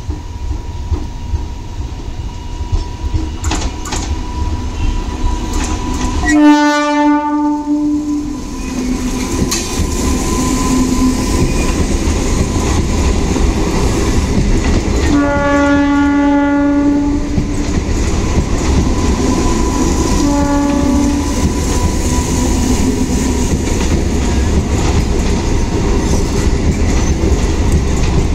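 An Indian Railways MEMU electric multiple unit, converted from a DEMU, sounds its horn three times as it runs past: two long blasts about 6 and 15 seconds in, then a short one. The rumble and clatter of its wheels and coaches grow louder as the train draws alongside and keep going as the coaches pass.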